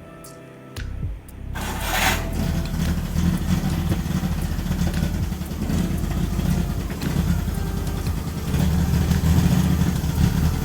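Maruti Omni's three-cylinder petrol engine, running on a Hero Impulse motorcycle carburetor, coming in suddenly about a second and a half in and then running steadily.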